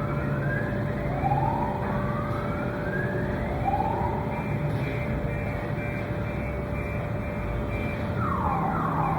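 Emergency vehicle siren wailing in slow rising sweeps, switching to a fast yelp near the end.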